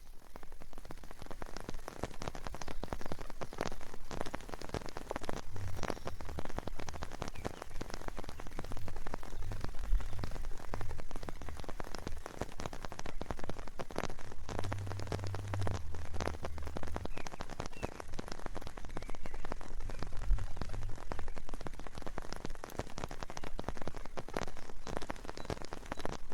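Steady rain, with many individual drops striking close by in an irregular stream of sharp ticks, and a low rumble now and then.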